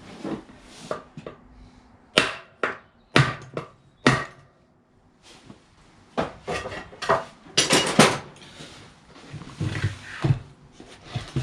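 Sharp taps on the back end of a Kranzle pressure washer's electric motor shaft, knocking it loose from the motor housing. The taps come as a run of separate knocks, with quieter handling clatter between them.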